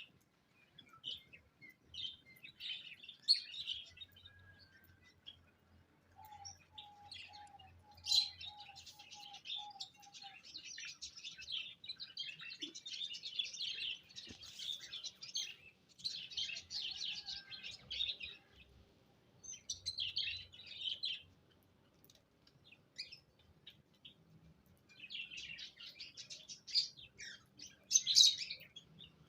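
Small cage birds chirping and twittering in busy bouts with short lulls. About six seconds in, one bird gives a run of lower, evenly spaced notes, about two a second.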